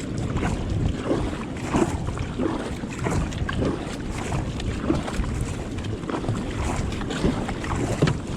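Wind buffeting the microphone over water sloshing and splashing around a kayak in surf, with short irregular splashes throughout.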